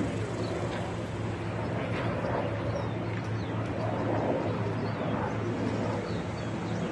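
A steady low hum, with indistinct voices murmuring underneath and a few faint high chirps.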